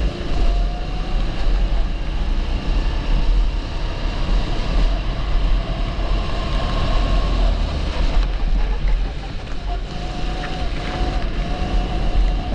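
270cc kart engine running on track, its tone shifting slightly in pitch, with wind buffeting the microphone.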